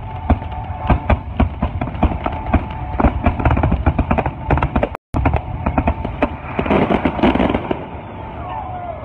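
A fireworks display going off in rapid bangs, several a second, over steady music. The sound cuts out for an instant about five seconds in, then the bangs go on and end in a burst of crackling.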